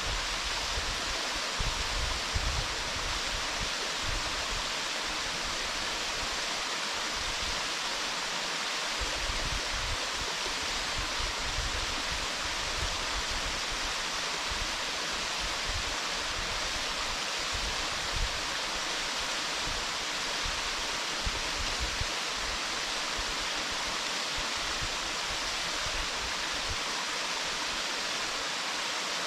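Waterfall pouring steadily: an even, unbroken rush of falling water, with a flickering low rumble underneath.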